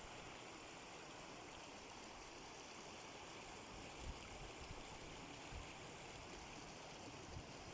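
Faint, steady rushing of running water.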